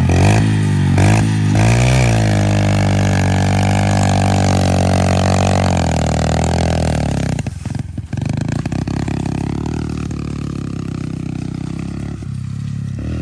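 Pit bike engine revving: a few quick blips in the first two seconds, then held at high revs for several seconds, dropping sharply about eight seconds in and running on lower and steadier.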